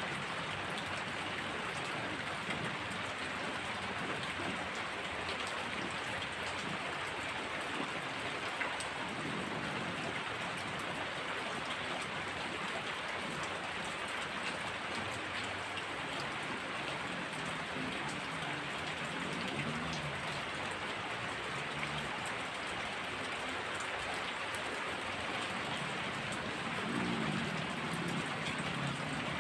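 Heavy rain falling steadily, with low rumbles of distant thunder now and then, a little louder near the end.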